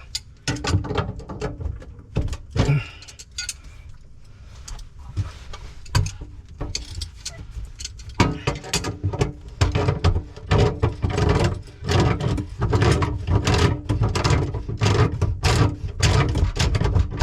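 Hand tools and metal plumbing fittings clanking and clicking in quick, irregular knocks, growing busier about halfway through, as the pipe unions on a water heater are worked loose.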